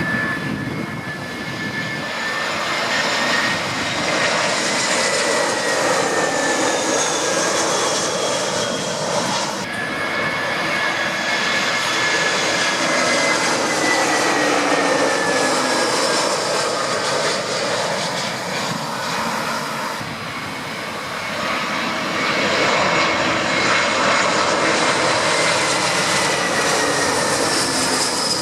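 Jet airliner engines running loud and steady, with whining tones that slowly fall in pitch as the aircraft pass. The sound breaks off and starts afresh twice, about ten and twenty seconds in.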